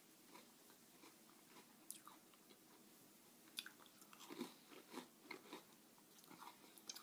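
Faint crunching of a person biting and chewing a s'mores Oreo, a sandwich cookie with graham-cracker-flavoured wafers. It is mostly quiet for the first few seconds, then a run of small crunches begins a little past halfway.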